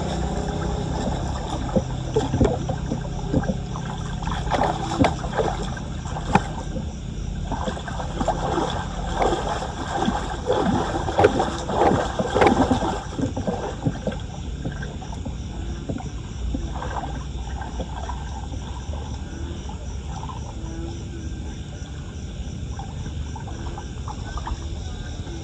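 Shallow floodwater splashing and sloshing, with irregular splashes for the first half, then settling into a steady rush of water.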